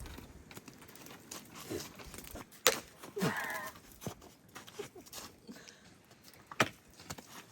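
Scattered knocks and clicks, two of them sharp, with a short cry that falls in pitch about three seconds in.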